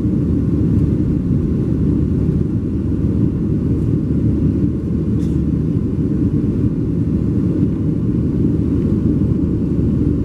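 Steady, loud rumble of a Boeing 737-700's CFM56 engines and airflow, heard inside the passenger cabin.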